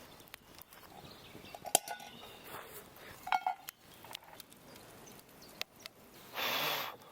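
Cooking utensils and cookware clinking and knocking a few times, one clink ringing briefly, with a short burst of noise near the end.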